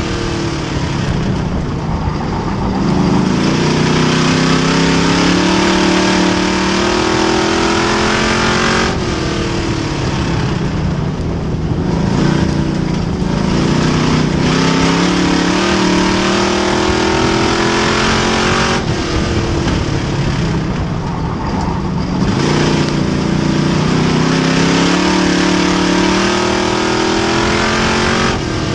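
Race car engine running hard on an oval track, pitch climbing for several seconds and then dropping suddenly, three times over, about every ten seconds, as it accelerates and lifts in turn.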